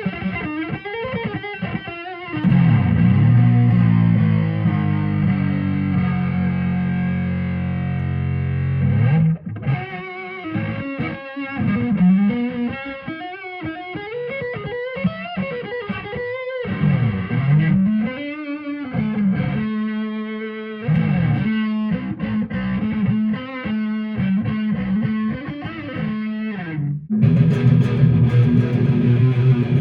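1995 Gibson Les Paul Studio electric guitar with 490R and 498T humbuckers, played with distortion. A chord is struck about two seconds in and left to ring, then come single-note riffs with string bends, and another chord is struck near the end.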